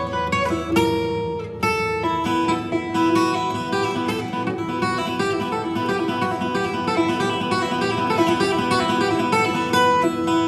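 Acoustic guitar played in a quick run of plucked and strummed notes, the notes ringing on together in the long concrete corridor of an old military bunker.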